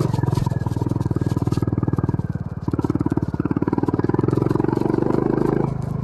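The 2022 Honda CB350 RS's air-cooled single-cylinder engine running at low revs on a dirt trail, with its separate firing pulses plainly heard. The engine sound drops briefly about two and a half seconds in and again near the end, then comes back.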